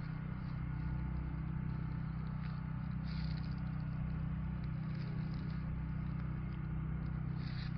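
Vehicle engine running steadily with an even low hum while driving slowly along a road.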